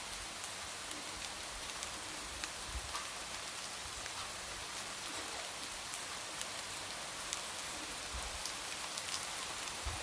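Light rain falling steadily, with a soft hiss and many small drops tapping against a window pane.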